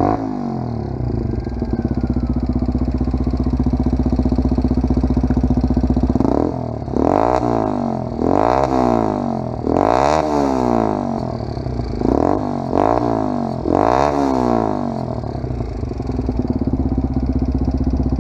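WK 125 RR 125cc single-cylinder motorcycle engine through a Scorpion full-system aftermarket exhaust, idling steadily, then blipped with about five quick revs that climb and drop, before settling back to idle.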